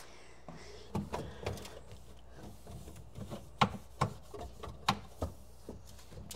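Irregular knocks, clacks and rubbing as plastic refrigerator drawers and containers are handled, with the sharpest knock about three and a half seconds in.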